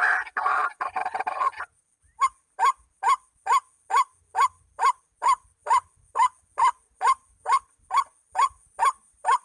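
White-breasted waterhen (ruak-ruak) calls: a dense run of overlapping calls for the first second and a half, then, after a short gap, a steady series of short rising calls, a little over two a second.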